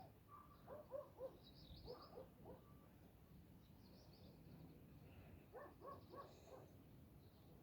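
Faint dog barking in short runs of three or four barks, with small birds chirping high above it.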